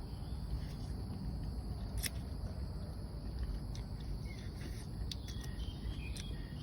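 Steady low background rumble and hiss with a few sharp clicks, one about two seconds in and several near the end, and faint short high chirps in the second half.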